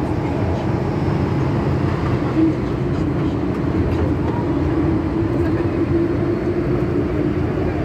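MTR M-Train electric multiple unit running along the line, a steady rumble of wheels on rail with a constant low hum, heard from inside the carriage.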